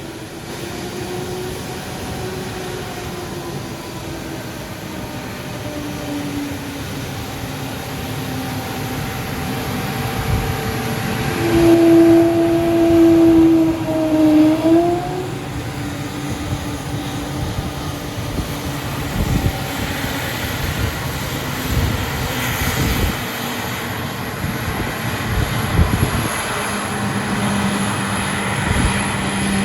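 Airbus A220's Pratt & Whitney PW1500G geared turbofans running at low taxi power with a whale-like moan: drawn-out tones that waver and slide in pitch. The moan is loudest about twelve to fifteen seconds in, where it bends upward. Near the end a steadier, lower hum comes in.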